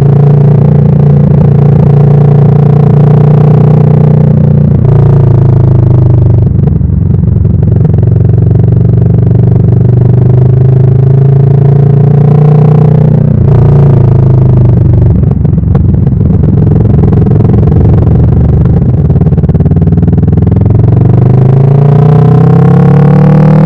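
Kawasaki Vulcan S parallel-twin motorcycle engine under way and accelerating. Its pitch climbs steadily, then drops at upshifts about five and thirteen seconds in.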